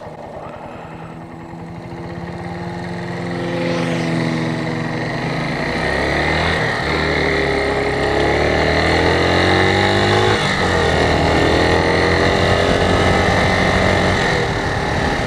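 Suzuki TU250X motorcycle's single-cylinder engine pulling away and accelerating, its pitch climbing in each gear, with upshifts about seven and ten seconds in.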